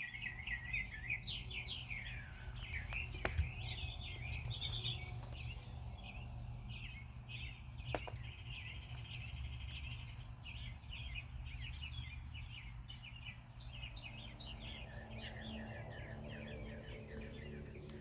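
Birds chirping and singing continuously in quick, overlapping phrases, over a steady low rumble. Two sharp clicks stand out, about three and eight seconds in.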